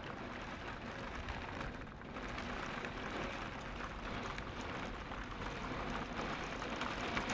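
Storm wind with rain: a steady rushing noise with faint patter, swelling a little near the end.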